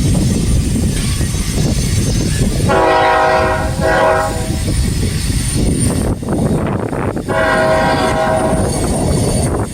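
Diesel locomotive horn sounding a long blast, a short one, then another long one about three seconds later, over the steady rumble of a moving freight train. It fits the end of a grade-crossing sequence (long, long, short, long).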